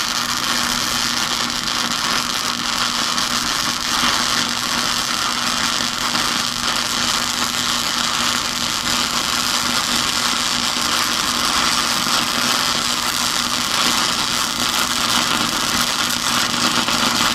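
Wire-feed (MIG) welder arc running a bead: a steady crackling "sizzling bacon" sound with a faint steady hum underneath, the sign of a hot setting laying down plenty of metal. It cuts off abruptly near the end as the trigger is released.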